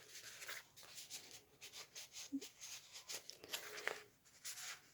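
Paper handling: soft rustling and scratchy little ticks of journal pages and cards being moved and turned.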